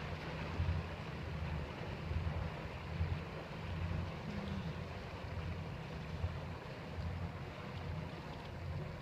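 Sea Ray 340 cruiser's inboard engines running at low idle as the boat is manoeuvred into its slip, a low rumble that swells and fades, with wind buffeting the microphone.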